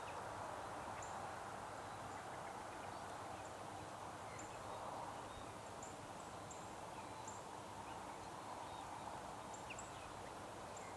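Small bird giving short, high chirps at irregular intervals, about ten in all, over a steady background noise.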